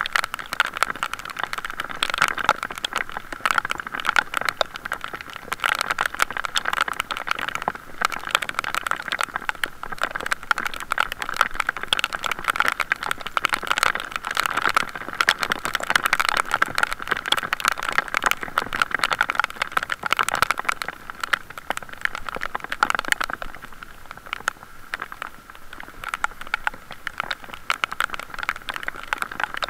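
Heavy rain pelting a waterproof camera case, a dense continuous crackle of drop hits, easing a little about three-quarters of the way through.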